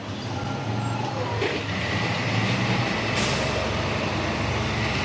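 A 4x4 truck's engine running steadily, with a low hum, growing a little louder about a second and a half in.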